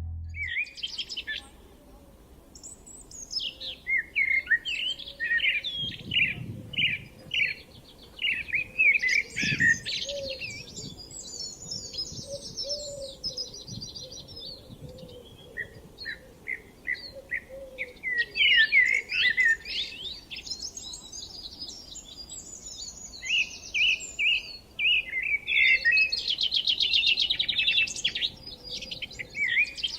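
Several songbirds singing at once: overlapping chirps, quick trilled phrases and short whistled notes that come and go, with brief pauses between bursts.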